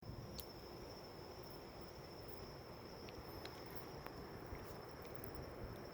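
Crickets trilling, faint and steady: one continuous high-pitched note, with a few faint clicks.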